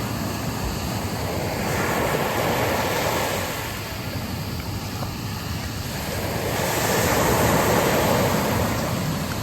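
Sea waves washing onto a beach, a steady rush of surf that swells twice, with wind in the background.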